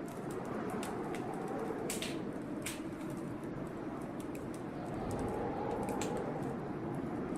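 Wood fire crackling in a fireplace, with scattered sharp pops and snaps, over a steady low rush of blizzard wind that swells a little about five seconds in.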